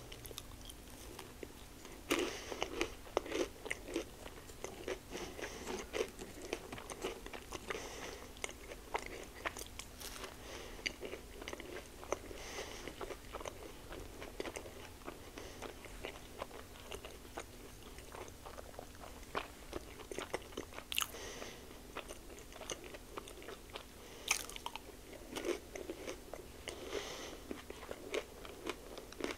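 Close-miked biting into a cheesy chicken taquito dipped in queso, then chewing it, with many small mouth clicks; the loudest bite comes about two seconds in, with more bites later.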